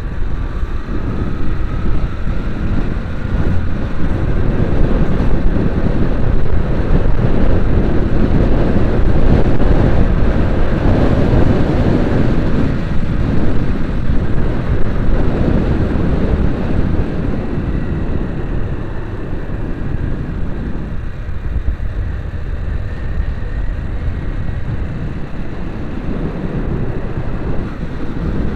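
Vehicle driving on the road: a continuous rumble of engine and road noise with wind buffeting. It swells to its loudest a third of the way in and eases somewhat in the second half.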